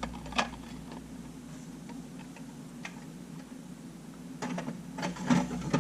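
Clicks and light clatter of small camera parts being handled on a workbench: one sharp click about half a second in, then a cluster of clicks near the end, over a steady low hum.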